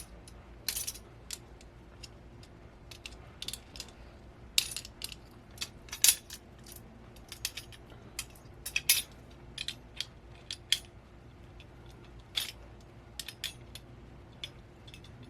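Small metal parts of a monitor VESA adapter mount clicking and clinking as they are handled and worked apart by hand, in scattered irregular sharp taps.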